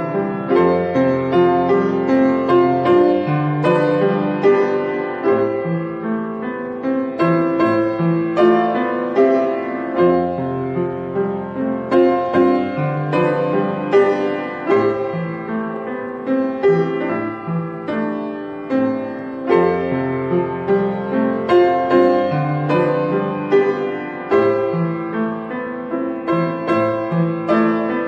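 Solo piano playing a gentle original piece: a continuous flow of melody over chords, each note struck and then fading.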